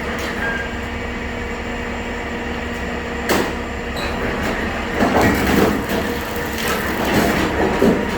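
Steady low rumble of a moving vehicle heard from inside the cab, with a steady hum. There is a single click about three seconds in, and uneven, louder rattling from about five seconds on.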